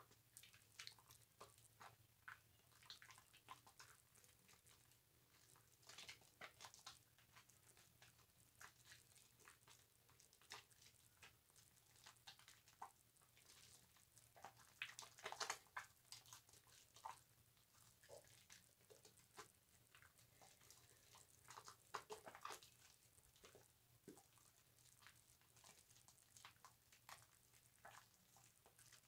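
Bar soap being rubbed on a loofah: faint, irregular wet crackles and squishes of lather.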